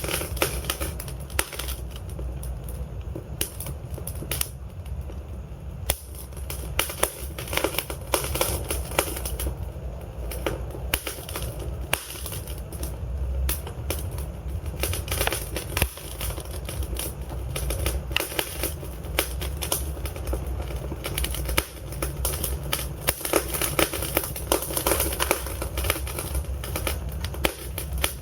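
Wood fire in a fireplace, logs burning with frequent irregular crackles and pops over a steady low rumble of the flames.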